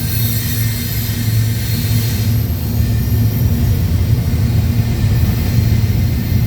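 Freight train rolling past close by: a steady heavy rumble of diesel locomotive and rail cars, with high-pitched wheel squeal that fades out about two and a half seconds in.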